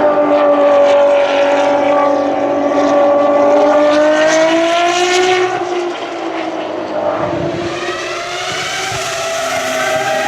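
Ferrari race car engine running at high revs, its pitch dipping slightly and rising again before it fades about six seconds in; a second car's engine then climbs steadily in pitch toward the end.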